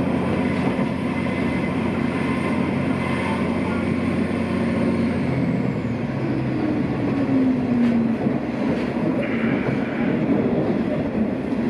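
Diesel railcar running on the line, heard from inside the passenger cabin: a steady engine hum with wheel and track noise, the engine note sliding down a little about six seconds in.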